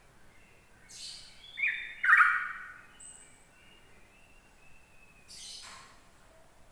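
Yellow-vented bulbul singing: short, bubbly phrases, the loudest just after two seconds, and another burst about five seconds in, with faint thin whistles from other birds in between.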